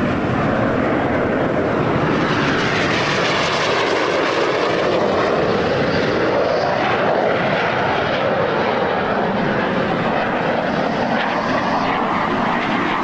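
Frecce Tricolori's Aermacchi MB-339 jets flying a display, a loud steady jet-engine roar that sweeps in pitch as the aircraft pass, most clearly around the middle.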